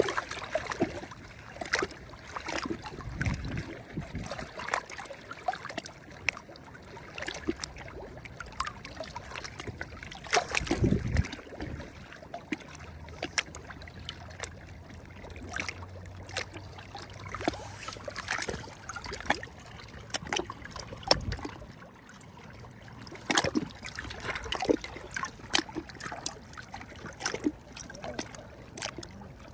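Small sea waves lapping and splashing, a constant patter of short splashes with a few heavier wave surges about three, eleven and twenty-one seconds in.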